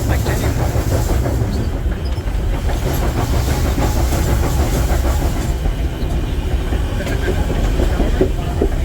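Steam train rolling along the track: a steady low rumble with a rapid clatter of wheels on rail.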